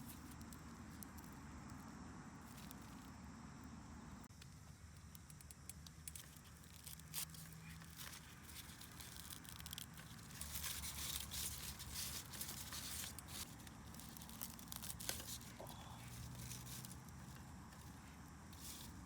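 Faint, irregular crackling and rustling clicks, thickest for a few seconds past the middle, over a low steady background hum.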